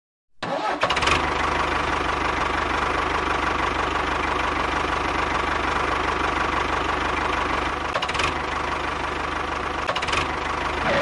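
A motor running steadily with a fast, even low rhythm, starting about half a second in.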